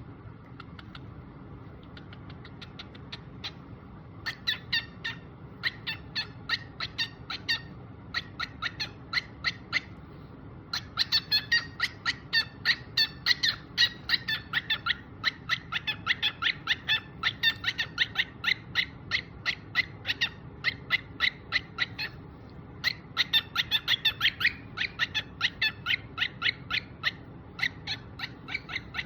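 Cockatiel chirping in long runs of short, high calls, about four a second, broken by a few brief pauses.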